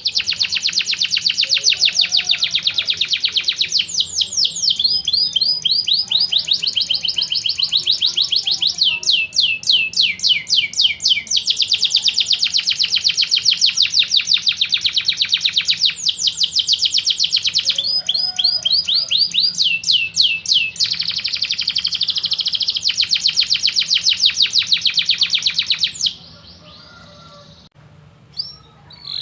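Domestic canary singing a long song of rapid rolling trills, switching between trills of different pitch and speed every second or two. The song stops abruptly about 26 seconds in, followed by a quiet stretch with a brief faint note near the end.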